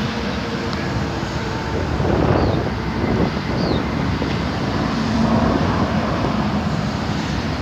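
Wind buffeting the microphone over a steady low rumble of road traffic.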